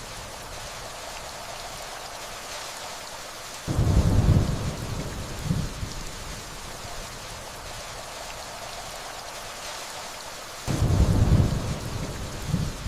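Steady rainfall with two rolls of distant thunder, one about four seconds in and another near the end, each starting suddenly as a low rumble and fading with a smaller second swell.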